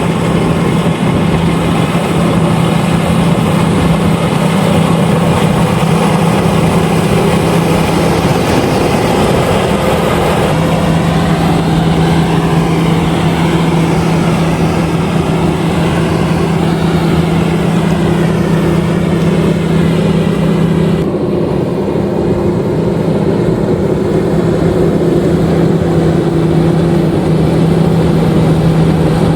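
LOVOL RG130EVO combine harvester running steadily while harvesting rice, a loud, even engine hum with a steady low tone that wavers briefly about nine seconds in.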